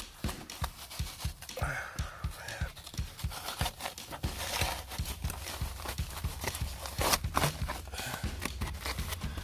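Old duct wrap and ductwork being pulled back by hand: rustling and tearing with many irregular light knocks and scrapes.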